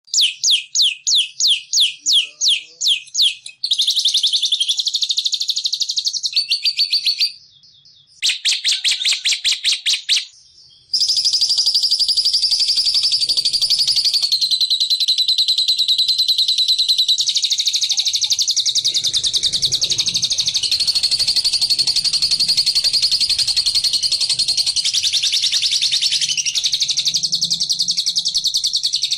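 Recorded songbird chatter used as a lure call: a run of quick, high, separate chirps, then fast trills with two short breaks, then from about eleven seconds on a continuous rapid chattering.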